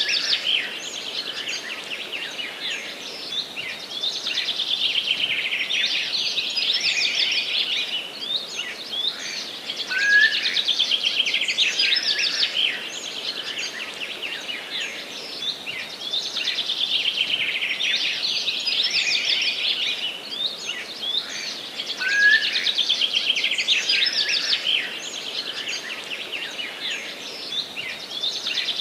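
Forest songbirds singing in a dense, continuous chorus of chirps and warbling trills, with louder song phrases coming back every several seconds.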